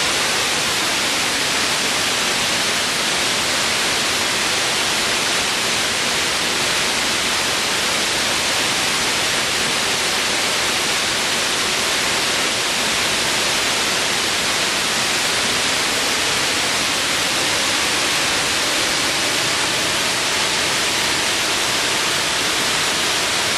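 Waterfall: a steady, even rush of falling water, bright and hissy.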